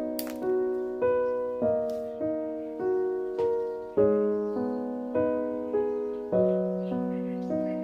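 Slow, gentle solo piano music: a calm melody over chords, a new note or chord about every half second.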